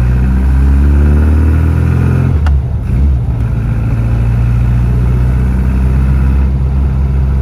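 Rover Mini's A-series four-cylinder engine under way on a test drive after a torn, grease-leaking boot was repaired: it rises in pitch as the car accelerates, drops back with a click about two and a half seconds in at a gear change, then runs steadily.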